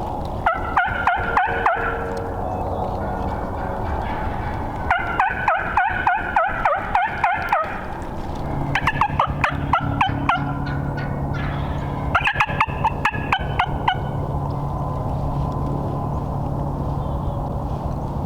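Turkey yelping: four runs of quick, evenly spaced calls, each run one to three seconds long. A steady low hum starts about halfway through.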